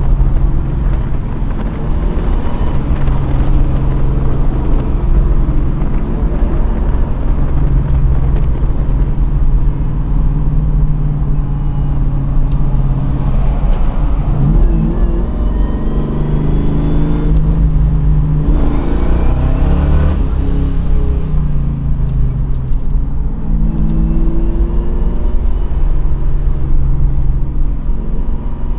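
Big-block V8 of a 1969 Camaro Yenko tribute running as the car is driven, its engine note rising and falling several times around the middle as it revs up and drops back.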